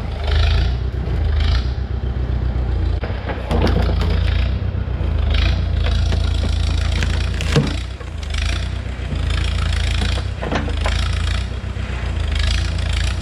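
A tracked excavator at work, its engine running steadily underneath repeated rushes of higher-pitched noise. There is a single sharp clank about seven and a half seconds in.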